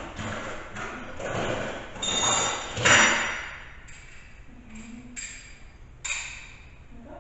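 Metal parts of a snow plow mount knocking and clinking together, some knocks with a short metallic ring; the loudest knock comes about three seconds in and another sharp one about six seconds in.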